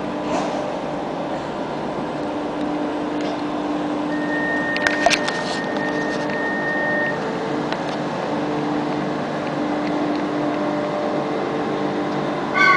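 Trenitalia Minuetto train pulling slowly into a station platform, running with a steady hum. A thin high whine lasts a few seconds around the middle, with a few sharp clicks about five seconds in and a brief louder pitched sound near the end.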